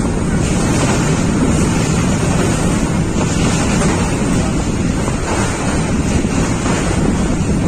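Steady rumbling rush of a moving express passenger train, heard from on board, with wind buffeting the microphone.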